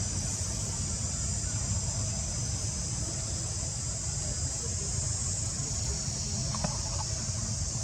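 Steady high-pitched chorus of insects in jungle, with a low rumble underneath and a brief click about six and a half seconds in.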